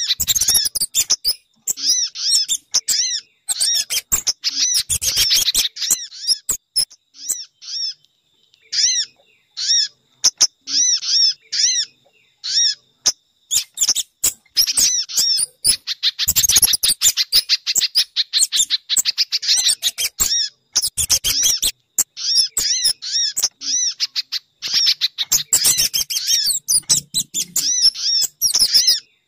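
Recorded small-bird lure calls: rapid strings of high, sharp chirps with sharp clicks among them, from a mixed call track of sogon, spiderhunter (pijantung) and kemade birds. The calling thins out for a few seconds about a third of the way in, then comes back dense.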